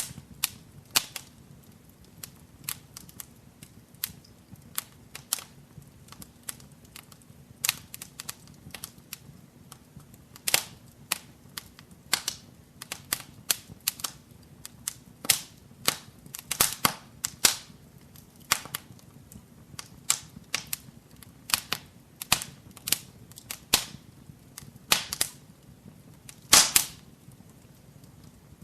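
Wood fire in a fireplace crackling: irregular sharp pops and snaps, often several a second, over a faint low rumble of the flames, with one louder crack near the end.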